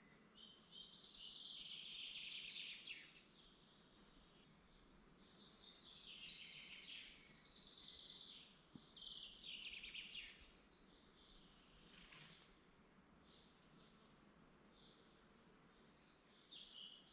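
Songbirds singing in woodland: rapid, high-pitched twittering and trilled phrases, loudest in the first three seconds and again around six and ten seconds in, fainter after that, over a soft steady hiss. A single short click sounds about twelve seconds in.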